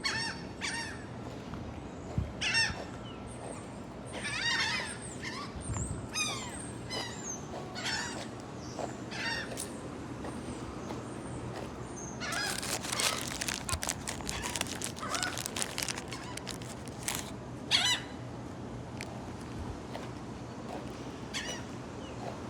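Gulls calling again and again in short, harsh, wavering cries. About halfway through there is a denser stretch of many overlapping sharp sounds.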